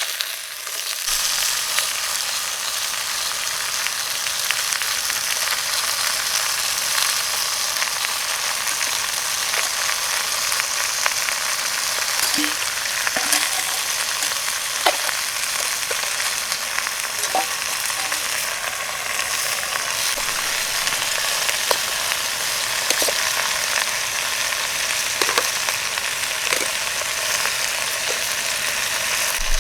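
Food frying steadily in a pan over a campfire, a dense sizzle broken by occasional small pops.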